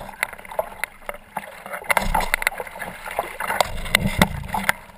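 Water splashing and slapping around a kayak paddling through big swells, in irregular sharp splashes, with a low rumble joining about two seconds in.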